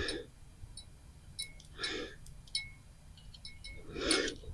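Faint, irregular clicking of a fishing reel's drag being set, with soft breaths about every two seconds.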